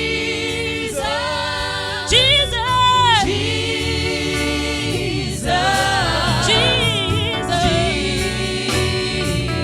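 Gospel worship singing: the name "Jesus" sung again and again in long held phrases, about every two seconds, over a sustained keyboard or organ accompaniment.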